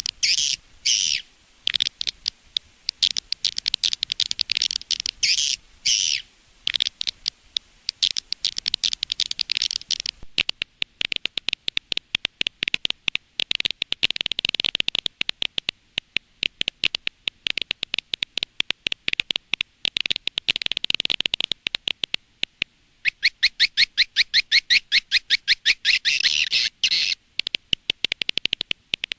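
Swiftlet lure recording: rapid chittering and clicking swiftlet calls in quick successive bursts, the sound played outside a swiftlet house to draw the birds in. The recording changes about ten seconds in, and a fast, even clicking trill runs near the end.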